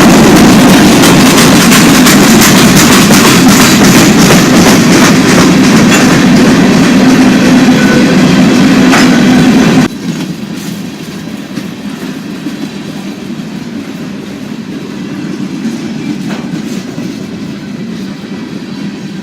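A train rolling past close by, with the wheels clicking over the rail joints. About ten seconds in, the sound drops suddenly to a much quieter, steady rumbling.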